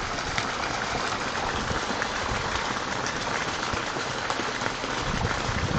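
Running water making a steady, even rush.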